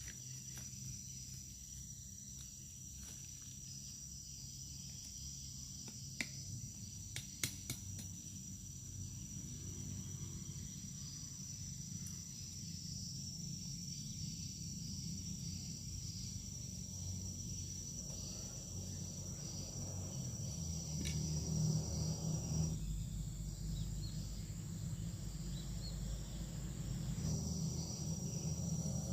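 Steady high-pitched trilling of insects over a low rumble that grows louder past the middle. A few sharp clicks sound about six to eight seconds in, and the highest strand of the trill stops about 23 seconds in, then resumes near the end.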